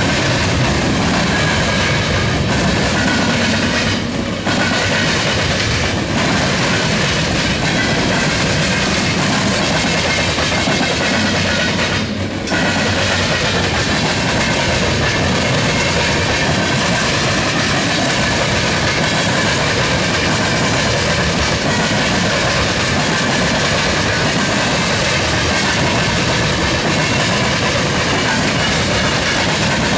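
Freight train cars (a boxcar and loaded tank cars) rolling past close by: a loud, steady noise of steel wheels on rail, dipping briefly twice, about four and twelve seconds in.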